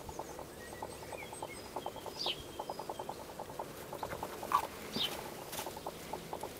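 Small birds calling: a short, high call repeated about every two and a half seconds, with a few fainter chirps between, over a fast, steady run of soft clicks.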